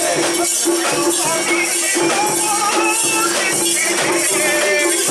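Japanese shrine-festival music: a high melody of held and gliding notes over a steady beat, with metal jingling about twice a second.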